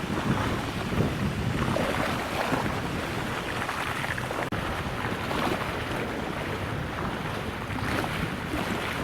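Wind buffeting the microphone, a steady gusty rushing noise that drops out for an instant about halfway through.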